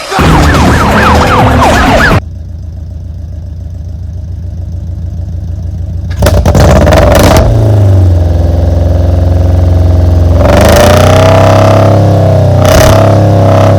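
1992 Honda Prelude engine running through a straight-pipe exhaust with a Magnaflow glasspack, very loud. It revs hard for about two seconds and drops back to a lower, steadier note. From about six seconds in it revs loud again, its pitch rising and falling.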